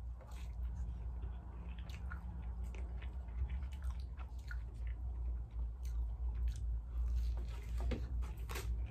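Close-up wet chewing, lip smacking and crunching bites of battered fried seafood, with many short sharp clicks and crunches scattered throughout, over a steady low hum.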